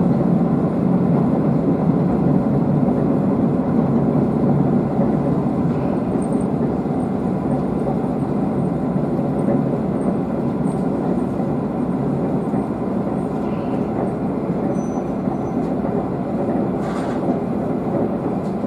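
Nishikigawa Railway diesel railcar under way, heard from inside the car: a steady low rumble of engine and wheels on the rails, easing slightly toward the end.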